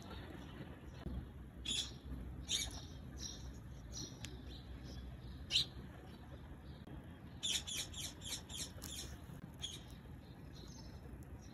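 Faint, short, high chirps of a small bird: a few single chirps, then a quick run of about six about two-thirds of the way through, over a low steady hum.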